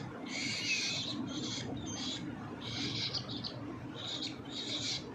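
Hand-fed parrot chicks giving harsh, hissy food-begging calls, a rapid run of short bursts with brief gaps.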